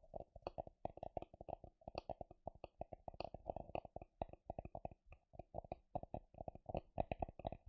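Rapid tapping close to the microphone, several quick taps a second in an uneven run.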